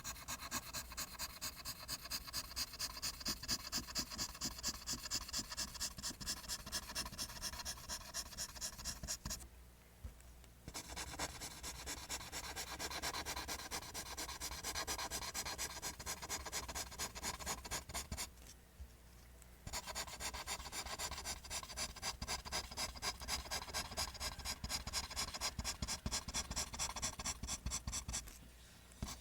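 Pencil drawing lines on paper: rapid, even scratching strokes, several a second, stopping twice for about a second, about a third of the way in and again past the middle.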